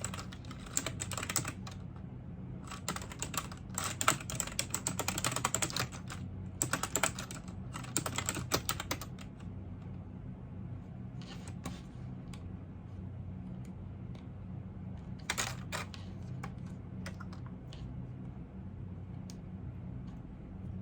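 Computer keyboard typing: fast runs of keystrokes for about the first nine seconds, then only scattered key taps with one short flurry past the middle. A low steady hum runs underneath.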